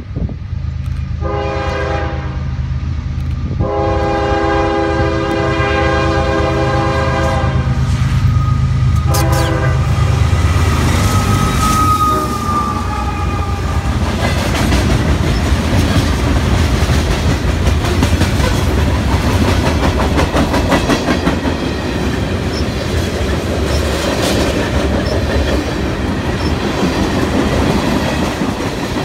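Freight train locomotive's air horn sounding three blasts, two long and a short one, over the steady low running of the locomotives. The train's cars then roll past with a fast, steady clickety-clack of wheels over the rail joints.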